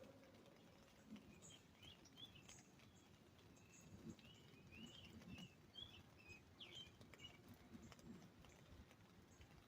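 Faint bird chirps, a run of short twittering calls through the middle, over scattered light drops tapping on an umbrella as the rain eases.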